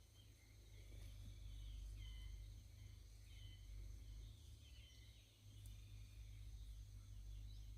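Faint, high chirping calls of small animals repeating every second or so, over a steady high thin drone and a low background rumble.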